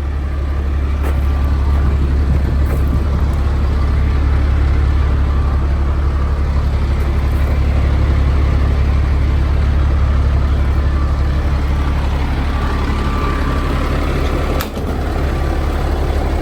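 Caterpillar diesel engine of a Freightliner FL80 truck idling steadily with a low, even rumble. A single brief click comes near the end.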